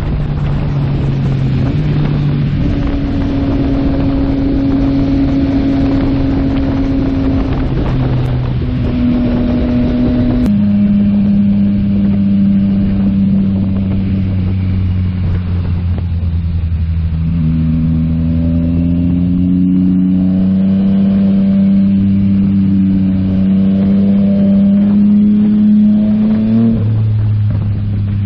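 Yamaha MT-09 SP's three-cylinder engine running through a Yoshimura AT2 full exhaust while riding. The engine note holds steady and shifts pitch in steps several times, climbs slowly in the second half and drops near the end. Wind rushes over the microphone for about the first ten seconds.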